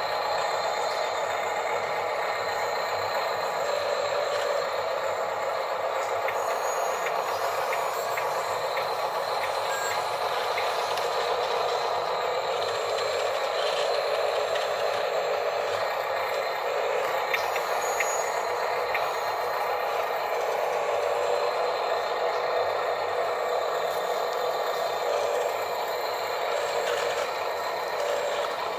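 Small electric motors and plastic gear trains of radio-controlled construction trucks whirring steadily, with a few light ticks.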